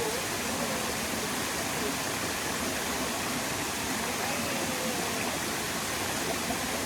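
Steady, even rush of water falling at Tad Mok waterfall, with faint distant voices under it.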